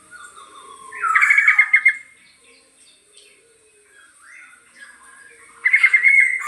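Young black-naped oriole (kepudang) practising its calls: two loud, rapidly pulsed squawks, one about a second in and one near the end, with quieter broken practice notes between.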